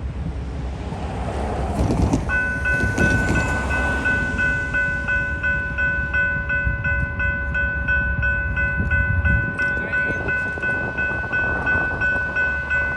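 A railroad grade-crossing warning bell starts ringing about two seconds in, with rapid, even dings about three a second. Under it is the low rumble of the approaching train.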